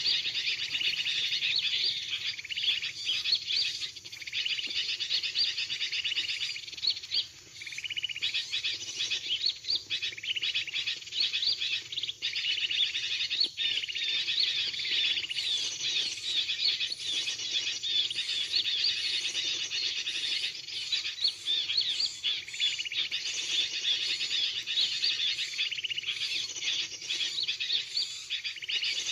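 Dense, continuous chattering of many small birds: a bird-trapping lure call of agitated sooty-headed bulbuls (kutilang ribut) mixed with small-bird calls.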